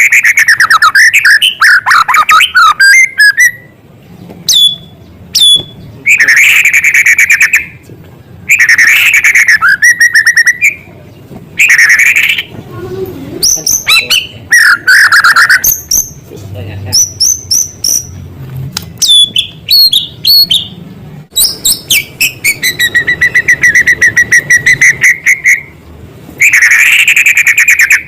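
White-rumped shama singing loudly in full song: phrases of varied whistles and fast trills mixed with mimicked small-bird calls, broken by short pauses, with a long rapid trill near the end.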